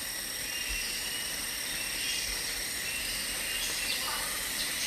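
Tropical rainforest insect chorus: a steady, high-pitched buzzing whine, with short faint chirps now and then over it.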